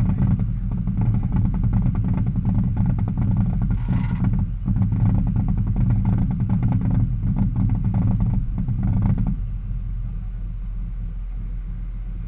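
Abarth 500 EVO2 race car engine idling with a rough, lumpy beat. About nine seconds in it drops to a quieter low rumble.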